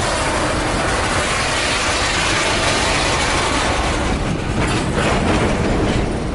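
Double-stack intermodal well cars rolling past close by: steel wheels rumbling and clattering on the rails. There are a couple of sharper clanks about four and five seconds in.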